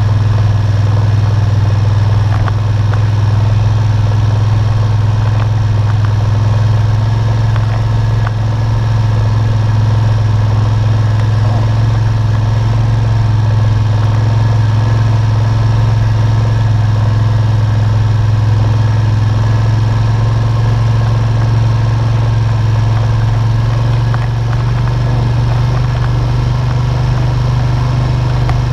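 ATV engine running steadily, heard close up from a camera clamped to the machine; the pitch rises slightly near the end.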